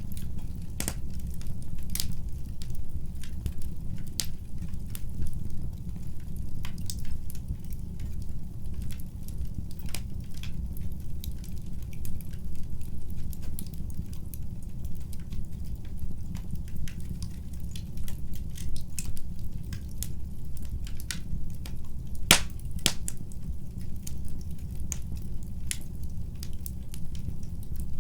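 Wood fire in a fireplace crackling, with irregular sharp pops and snaps over a steady low rumble of the flames; a couple of louder pops stand out, one about a second in and a pair a little past the middle.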